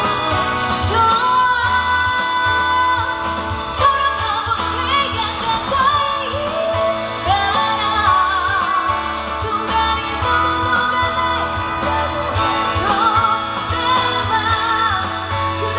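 Live pop ballad: a woman's singing voice, held wavering notes with vibrato, over an amplified accompaniment with guitar and bass.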